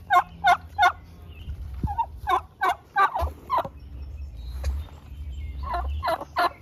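Turkeys calling: runs of three to five short, loud notes about a third of a second apart, repeated several times.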